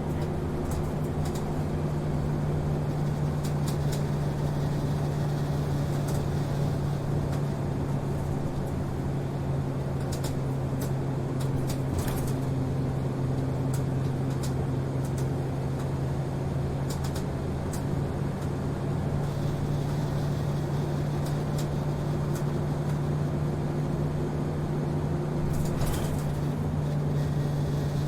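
Route bus heard from inside the passenger cabin, its engine running at a steady, unchanging hum. Small clicks and rattles from the bus body are scattered through it.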